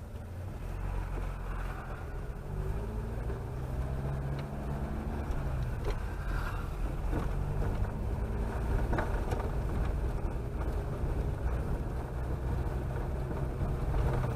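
Chevrolet Chevette engine running while driving, with road noise. The engine note rises and falls a few times.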